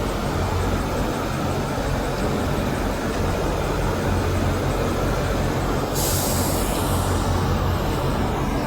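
A semi truck's diesel engine running with a steady low rumble. About six seconds in comes a short hiss of air from the air brakes.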